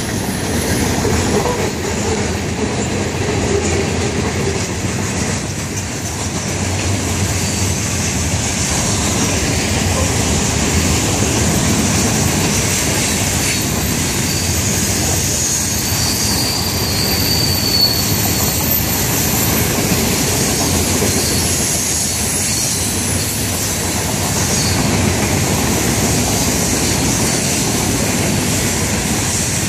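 Florida East Coast freight train's open hopper cars rolling past: a steady rumble and clatter of steel wheels on the rails, with a faint high wheel squeal around the middle.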